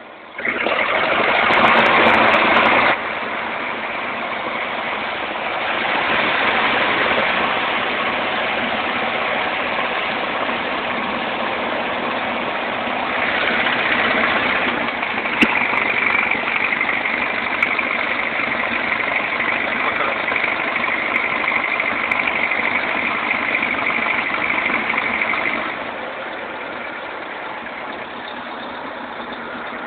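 Cessna 150's four-cylinder Continental O-200 engine and propeller heard from inside the cockpit, its level stepping up and down as the power changes. A steady high tone sounds over the engine for a long stretch in the middle.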